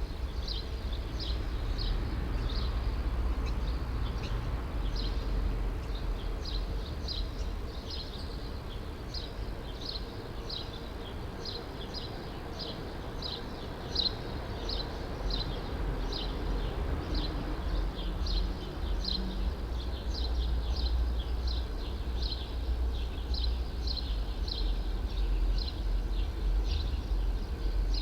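A bird repeating one short, high chirp about twice a second, evenly and without a break, over a steady low rumble of distant city traffic.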